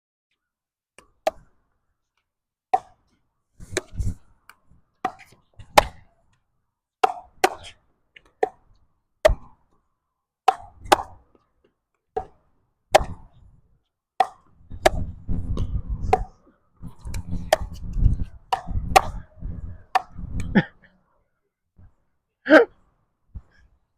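A ball rally: a ball struck back and forth and bouncing on the court, a sharp knock about every half second to second and a half. Wind rumbles on the microphone for several seconds past the middle.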